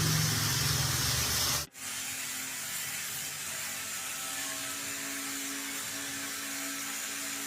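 A loud, steady low hum cuts off abruptly about a second and a half in. It gives way to the steady whir of a small electric motor or power tool running at constant speed.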